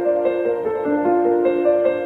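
Background piano music: a melody of held notes changing every fraction of a second.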